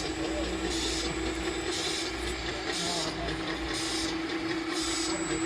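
Electric motors of RC model construction machines running: a steady hum with a hiss that surges about once a second, and people talking in the background.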